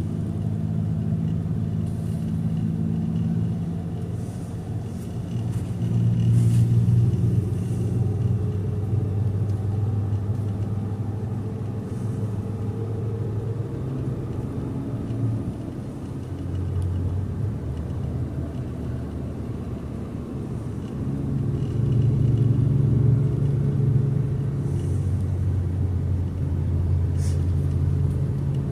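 Car running down the road: a steady low engine and road drone whose pitch shifts several times with the driving, swelling louder about a quarter of the way in and again over the last third.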